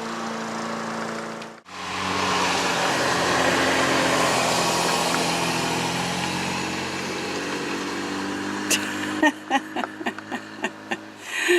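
A motor vehicle's engine running steadily with a rushing noise; the sound cuts out abruptly about a second and a half in and comes back, and short sharp clicks and knocks follow near the end.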